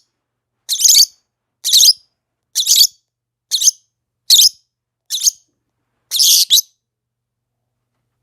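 Lovebird giving seven shrill, high-pitched chirping calls, a little under one a second, the last one longer than the rest.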